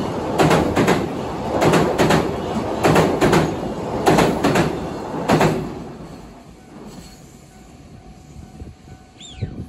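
Container freight train wagons rolling past, their wheels clattering over the rail joints in regular double beats, one pair per bogie. The noise fades after about five and a half seconds as the last wagon goes by. A brief high falling sound comes near the end.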